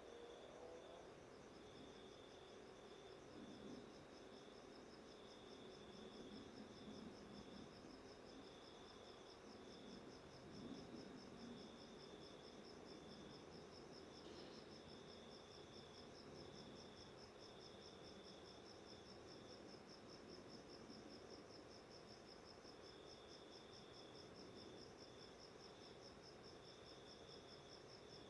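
Faint, steady insect trill made of rapid, even pulses. A second, lower trill starts and stops again and again.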